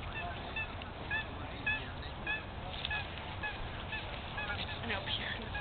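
Honking bird calls, short and repeated about twice a second.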